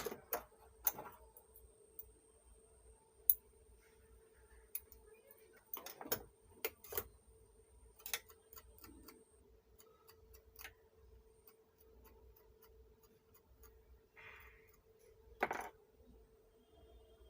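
Irregular sharp clicks and taps of small tools and parts being handled on a workbench, a dozen or so scattered with uneven gaps, over a faint steady hum.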